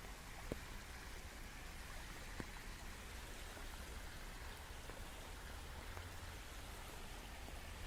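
Steady rain falling, an even hiss with a few sharper drop ticks, over a low rumble.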